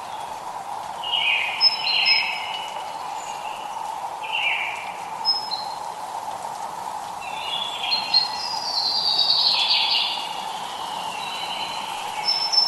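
Songbirds singing several short chirping phrases, the longest in the second half, over the steady hiss of light rain.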